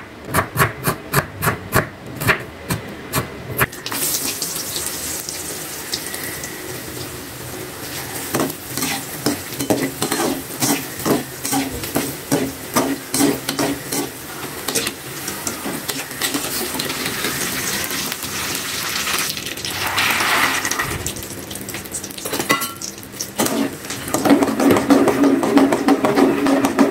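A knife chopping shallots on a wooden cutting board, at about three strikes a second for the first few seconds. Then strips of tempeh sizzle in hot oil in an aluminium wok while a metal ladle stirs and scrapes against the pan. Near the end it grows louder as peanuts fry and are stirred in the oil.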